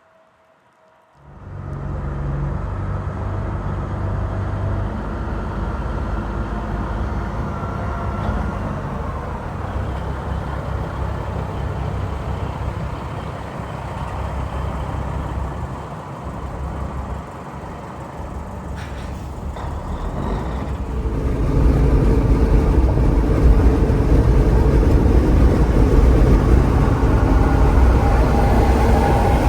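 Heavy road vehicle's engine running steadily, starting after a quiet first second and getting louder about two-thirds of the way through.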